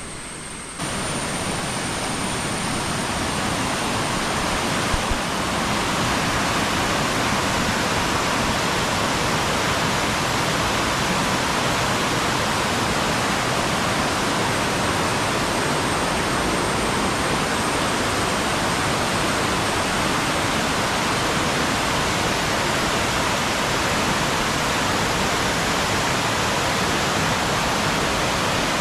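Steady rushing of water, an even noise with no changes in pitch, that starts abruptly about a second in.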